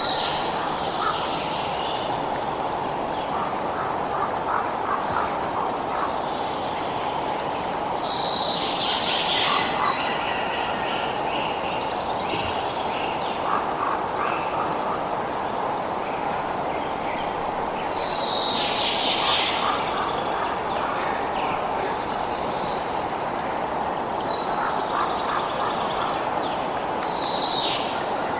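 Outdoor nature ambience: a steady rushing background noise with birds calling over it. Three loud, falling calls stand out, about nine seconds apart, with fainter chirps in between.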